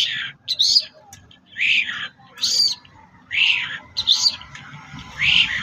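A bird calling over and over: about eight short, loud, high calls, several of them falling in pitch, coming roughly every half-second to second.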